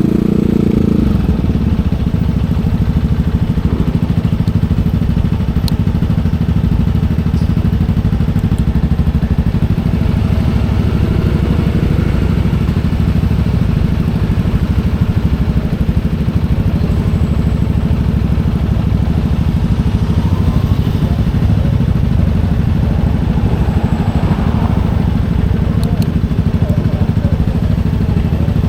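Motorcycle engine running under way, its note dropping about a second in and then holding steady.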